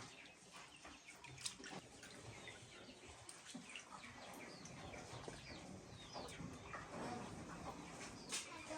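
Faint farmyard sounds: chickens and small birds calling now and then in short high chirps, with a few sharp clicks.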